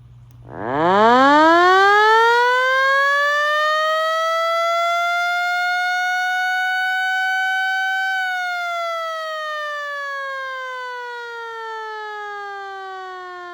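Federal Signal Model 28 electromechanical siren, a 12-volt DC, eight-port unit, winding up quickly from about half a second in. Its single note keeps climbing slowly to a high steady pitch, then winds down gradually after about eight seconds.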